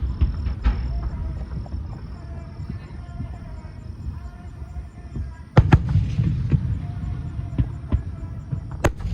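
Fireworks display: aerial shells bursting with a continuous low rumble, and two sharp bangs, one about halfway through and one near the end.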